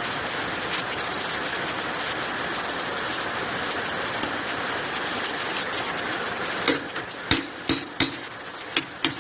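A steady hiss, then about two-thirds of the way in a run of sharp, uneven metallic knocks and clicks from hand tools at work on the engine.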